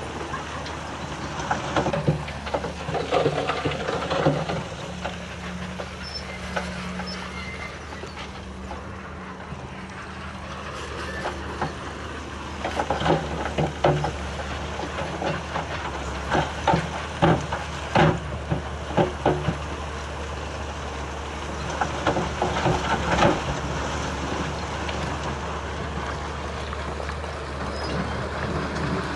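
Bulldozer's diesel engine running steadily while working, with repeated metallic clanks and sharp knocks from its tracks and the stone it moves, thickest about halfway through.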